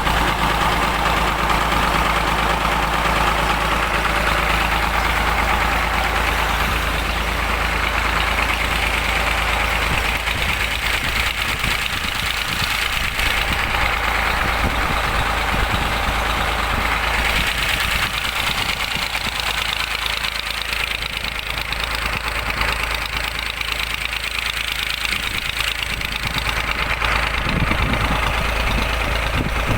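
Tractor diesel engine running steadily at constant speed while it powers field irrigation.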